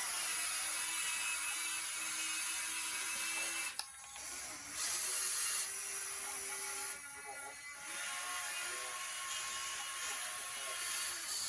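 Hydraulic pump and electric motor of an RC construction machine running with a steady whine, its pitch shifting as the load changes and dropping briefly about four seconds in and again around seven to eight seconds in.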